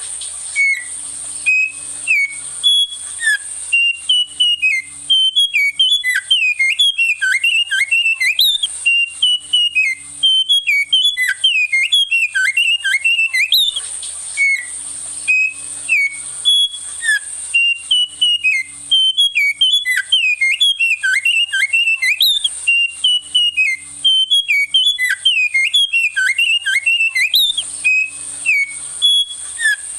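A songbird singing loud, fast runs of whistled notes that slide up and down, in long phrases broken by short pauses about halfway through and near the end, over a steady high hiss.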